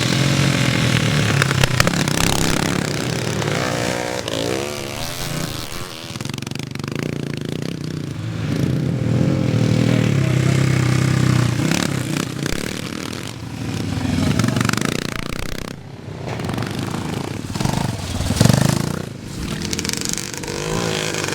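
Classic motocross motorcycles racing, their engines revving up and down through the gears as bikes pass one after another, the sound swelling and fading in turns.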